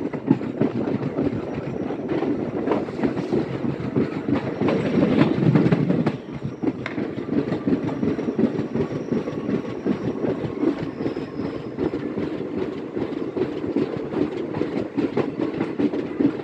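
Passenger train running at speed on jointed track, heard from an open coach doorway: a steady rumble of ICF coach wheels on the rails with a clickety-clack from the rail joints. It is a little louder for the first six seconds, then eases.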